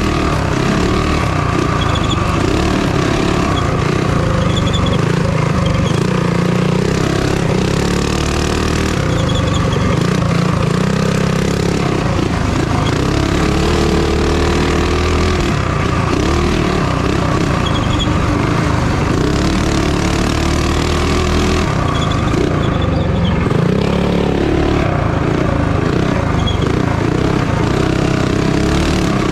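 Minibike engine running hard, its pitch rising and falling again and again as it revs up and backs off.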